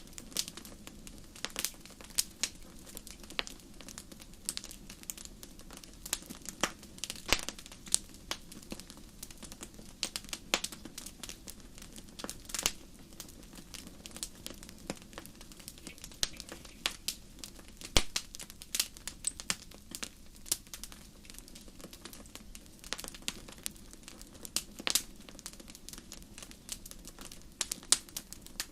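Wood fire burning in a fireplace, crackling: frequent, irregular sharp pops and snaps, a few of them louder, over a low steady rumble of the flames.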